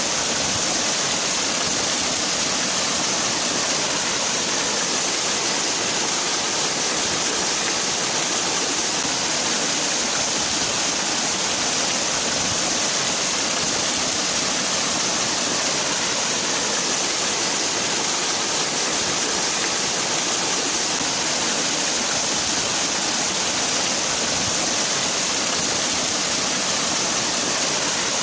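Waterfall: water falling and rushing in a steady, unbroken hiss, strongest in the high range.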